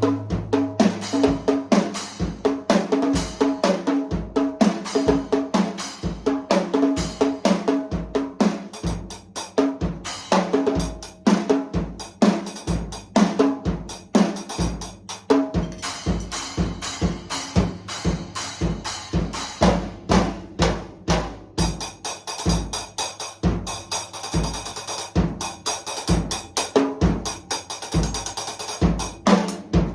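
A drum kit being played in a steady groove of kick drum, snare and toms, the drums ringing. Cymbals join in about halfway through and grow busier near the end.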